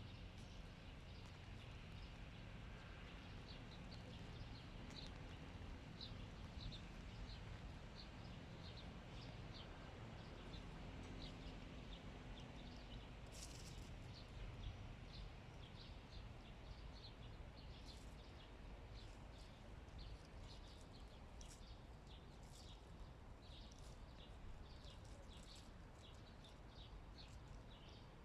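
Faint, short bird chirps repeating about once or twice a second, more often in the second half, over a low background rumble.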